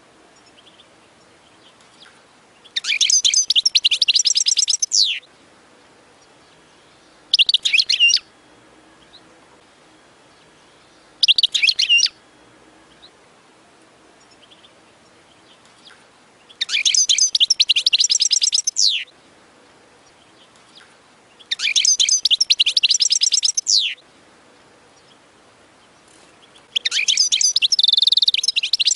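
European goldfinch singing: six bursts of fast, high twittering song, the longer phrases about two seconds each and two short ones under a second, separated by pauses of a few seconds.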